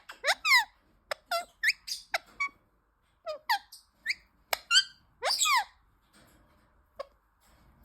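Indian ringneck parrot chirping: a run of short calls that each slide down in pitch, coming in quick clusters with a brief pause partway through, then a single chirp near the end.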